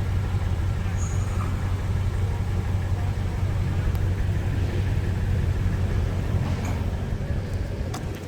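2008 Toyota Tundra engine idling steadily after a cold start, an even low hum with no change in speed. A few short clicks come near the end.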